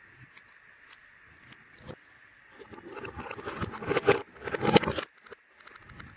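Plastic from a miniature toy set and its packaging handled close to the microphone: a few light clicks, then about two seconds of dense crackling and rustling that stops suddenly about five seconds in.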